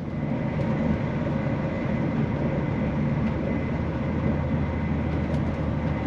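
Steady running noise inside the carriage of a CrossCountry Voyager diesel multiple-unit train in motion: a low rumble with a faint steady whine above it.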